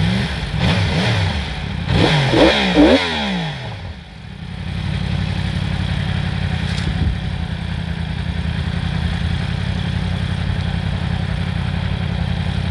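Yamaha R1's crossplane inline-four engine with an Akrapovic slip-on exhaust, revved in several quick throttle blips that rise and fall in pitch, then settling to a steady idle about four seconds in.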